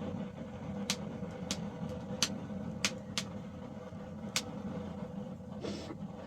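Six sharp knocks at irregular intervals over a steady low rumble, with a short scuffing burst near the end.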